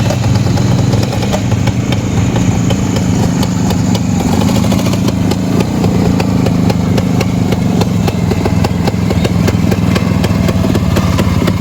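Rajdoot 175's single-cylinder two-stroke engine running steadily, its exhaust crackling with a rapid, even stream of firing pulses.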